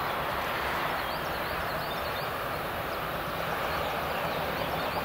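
Stadler KISS double-decker electric multiple unit approaching along the line: a steady, even rumble of the train running, with faint high chirps over it.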